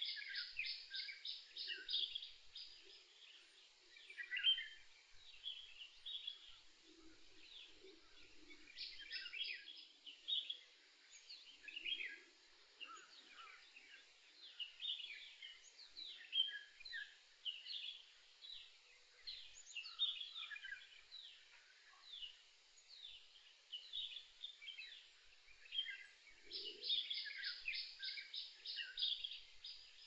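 Several birds chirping and singing at once, with a fast, evenly spaced trill that comes three times and short low calls underneath.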